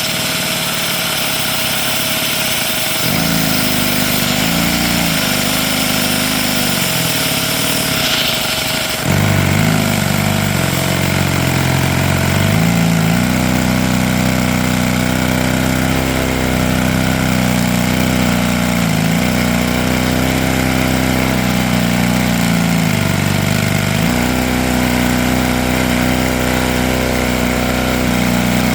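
Lego inline-two vacuum engine running at high speed on vacuum suction, with a steady machine hum and the engine note falling and rising again several times as its speed changes.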